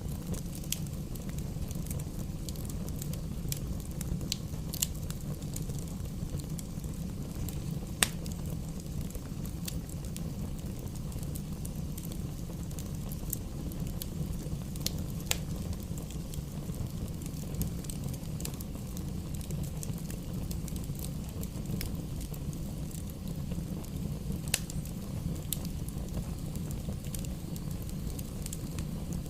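Campfire burning: scattered sharp pops and crackles of burning wood over a steady low rush of flame. The loudest pop comes about eight seconds in.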